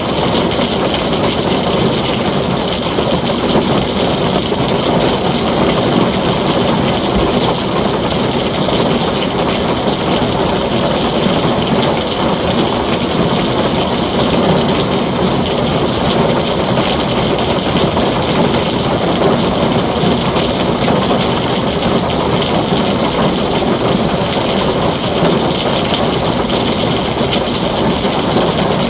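Heavy rain pouring steadily on a tin roof, an even, unbroken rush with no distinct thunderclaps.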